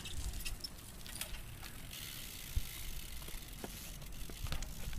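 BMX bike's rear hub ticking as the bike rolls, with two sharp knocks of the tyres hitting concrete.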